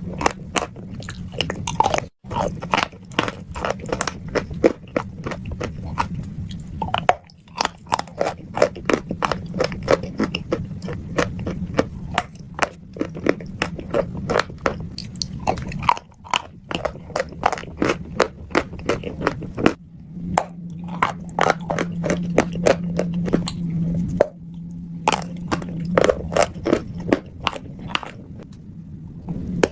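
Chalk coated in wet paste crunching: a dense run of sharp, crackly crunches over a low steady hum, broken by a few short gaps where the clips are cut together.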